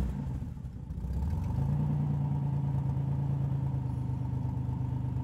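Car engine idling steadily, growing a little louder about a second in.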